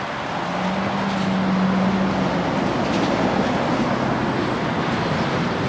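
Street traffic noise, with a low engine hum from a passing vehicle in the first couple of seconds.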